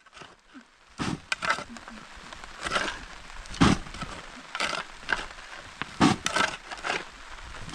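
A series of sharp, irregular cracks and knocks, about a dozen over several seconds, with faint background between them.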